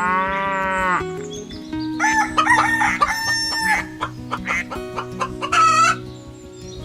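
Farm-animal calls: a cow's moo at the start, then a rooster crowing and hens clucking, over steady low background tones.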